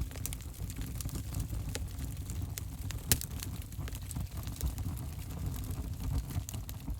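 Wood fire burning in an open fireplace: many sharp crackles and pops over a low, steady rumble of flames, with one louder pop about three seconds in.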